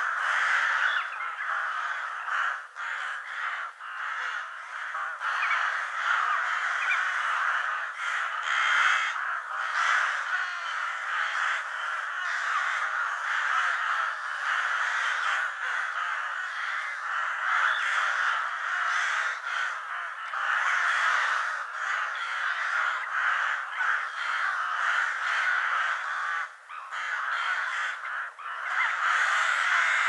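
Crows cawing over and over, harsh calls following one another almost without a break.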